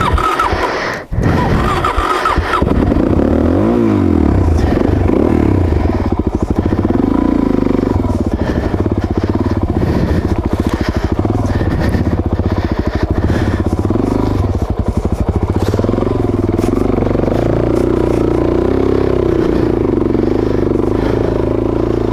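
Suzuki DRZ400S's single-cylinder four-stroke engine running as the motorcycle is ridden, revs rising and falling over and over. A short jumble of other noise comes first.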